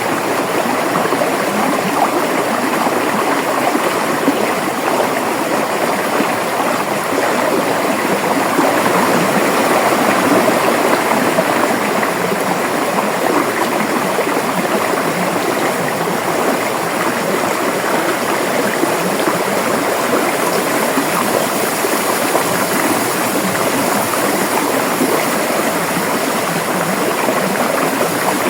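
A river's water running and gurgling over rocks in a steady rush.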